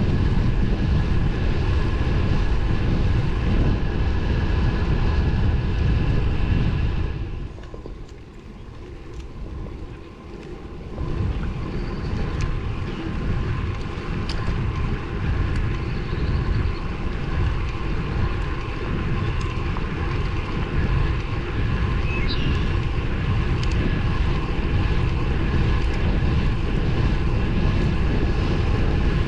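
Wind rushing over the microphone on a moving road bike, with tyre and road noise: a steady, loud rumble. It eases for a few seconds about seven seconds in, then comes back.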